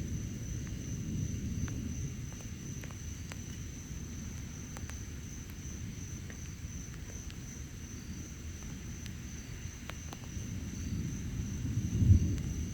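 Distant thunder rumbling low. It eases off in the middle, then builds again and peaks loudest near the end. A steady high-pitched insect trill runs underneath.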